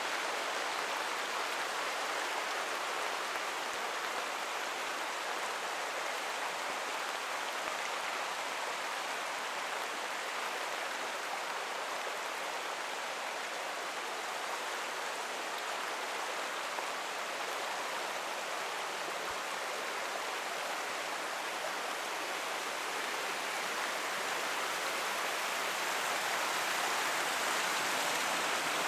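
Steady rush of a flowing forest creek, growing a little louder near the end.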